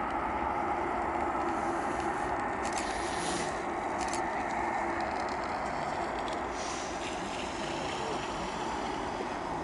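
Airbus A380's Engine Alliance GP7270 turbofan engines running steadily: an even rush of noise with a steady whine through it.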